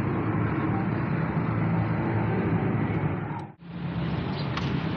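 An engine running steadily with a low, even hum, cut off briefly about three and a half seconds in before the same drone resumes.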